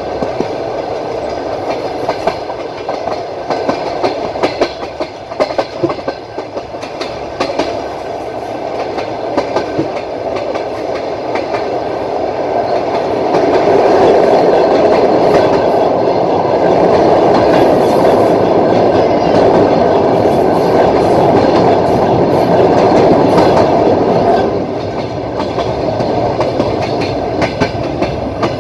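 Train wheels clattering over the rail joints as the train runs along, heard from aboard the train. About thirteen seconds in the running noise swells into a louder, steady rumble, which drops back about eleven seconds later.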